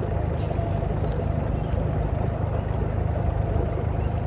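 Boat outboard motor running steadily at low speed, a constant low engine hum with a faint steady whine above it.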